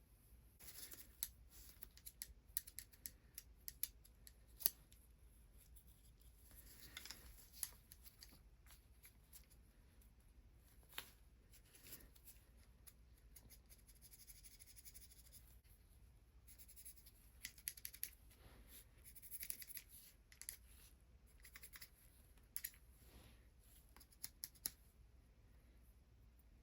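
Hands massaging a bare foot close to the microphone: soft rubbing of skin broken by many small, irregular clicks and crackles.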